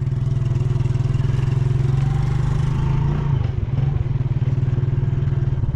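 Small motorcycle engine running steadily under way, heard from on the bike, with the engine note shifting slightly about three seconds in.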